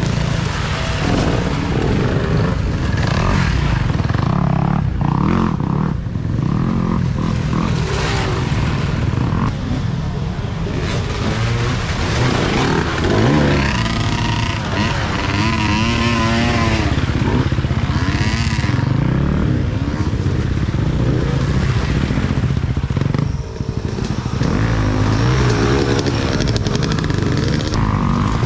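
Off-road racing dirt bikes running hard and passing, their engines rising and falling in pitch as the riders work the throttle, with one bike revving up and down clearly about halfway through.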